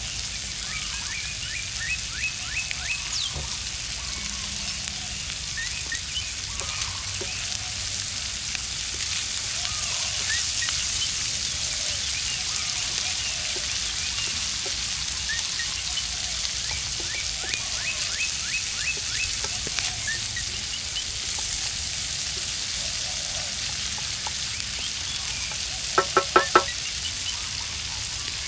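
Food frying in a pan over a campfire, a steady hiss. About two seconds before the end come four or five quick, pitched, call-like pulses.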